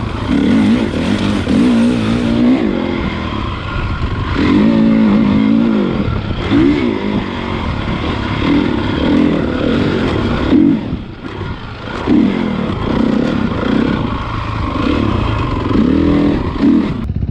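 Honda CRF450 motocross bike's single-cylinder four-stroke engine riding hard, the throttle opened and closed over and over so the revs climb and fall every second or two, with a short drop in revs about eleven seconds in.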